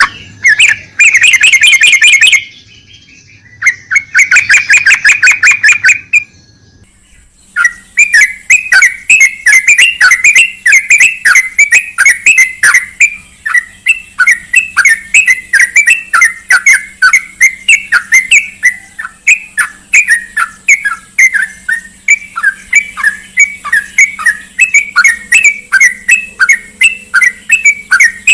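Yellow-vented bulbul (trucukan) song: two fast chattering bursts in the first six seconds, then a long run of quick repeated chirps, about three or four a second, very loud.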